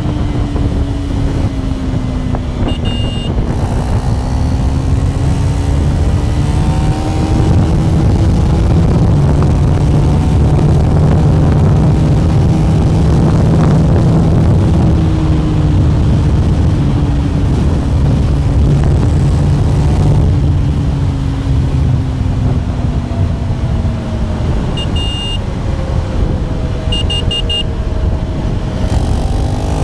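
KTM Duke 390's single-cylinder engine running under way on the road. Its pitch slides slowly up and down with speed, and it grows louder about eight seconds in before easing off again past the twenty-second mark.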